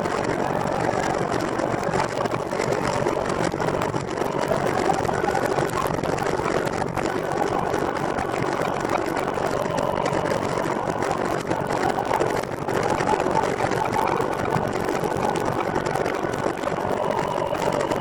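Steady, even riding noise from a recumbent trike on the move: tyres rolling on pavement mixed with wind on the microphone, with no clear pitch.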